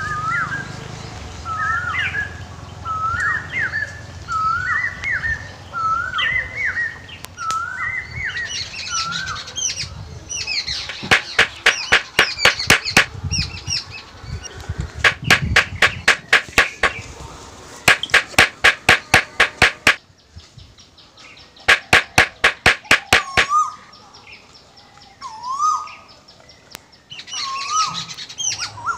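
Birds chirping: a short rising call repeated about once a second, then four runs of sharp rapid clicks, about eight a second, each lasting a second or two, with more chirps between and after them.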